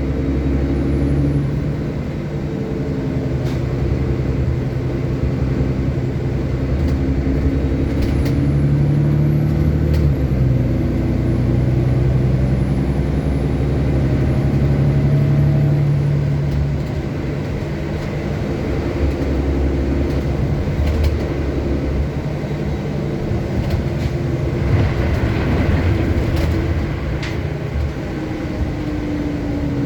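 City bus running along the road, heard from inside: a steady engine and drivetrain hum that shifts in pitch as it speeds up and slows, with a thin high whine for several seconds in the middle and a few sharp clicks and rattles.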